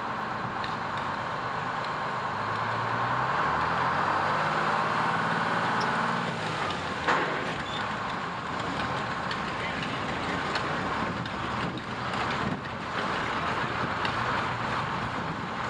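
Fire truck's engine running, rising in pitch for a few seconds as it speeds up, with one sharp knock about seven seconds in.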